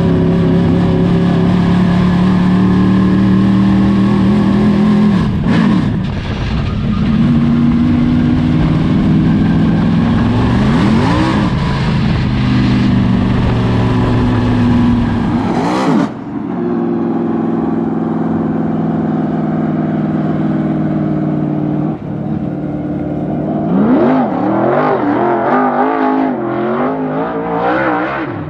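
Dirt super late model race car's V8 engine running hard on laps, its pitch dipping and climbing several times as the driver lifts off and gets back on the throttle.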